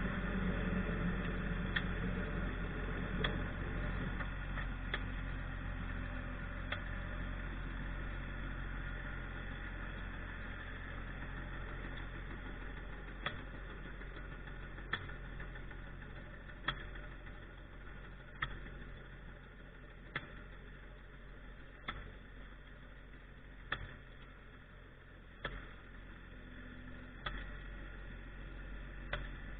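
Tractor engine running steadily and slowly growing fainter. Sharp clicks come at an even pace, about one every second and a half to two seconds.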